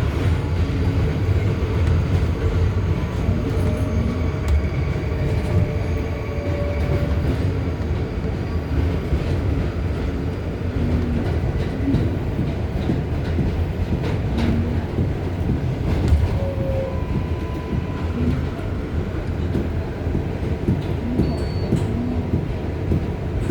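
Inside an R188 subway car on the 7 line: a steady low rumble of train noise with faint scattered clicks.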